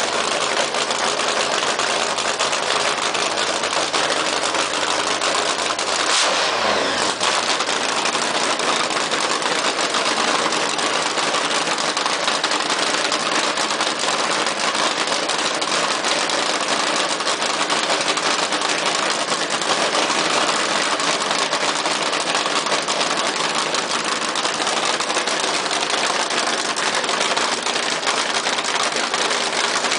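Nitro-fuelled Hemi V8 in a custom Thunderbird idling fast and loud, about 2,500 RPM, with a brief dip in pitch about six seconds in.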